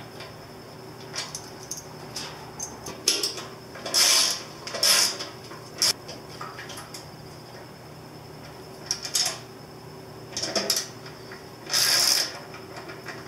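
Small metal parts and hand tools clinking and scraping in a string of short, uneven clatters, as the carburetor's bottom float bowl is put back on after re-jetting.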